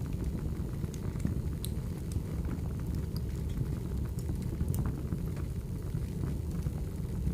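Firewood burning: a steady low rumble of the fire with scattered sharp crackles and pops throughout.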